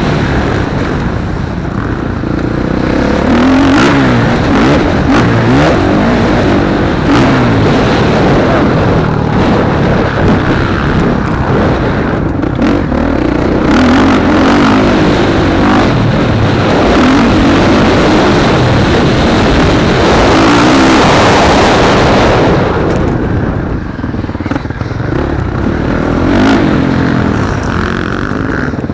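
Motocross bike engines racing, revving up and down continually as the bikes run the track. The sound grows louder and harsher about twenty seconds in and falls away a couple of seconds later.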